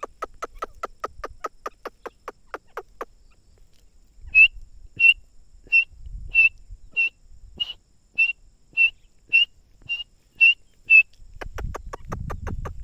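Teetar (francolin) calling: a fast run of short, evenly repeated notes, then about a dozen clear, high whistled notes at a steady pace of roughly two every second or so. The fast run of notes starts up again near the end.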